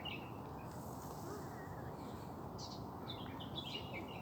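Small birds chirping in short quick bursts, once at the start and in a busier cluster from about two and a half seconds in, over a steady low background hum.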